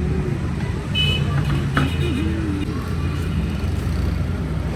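Busy street traffic: a steady low engine rumble with faint voices in the background, a brief high-pitched tone about a second in and a sharp click a little later.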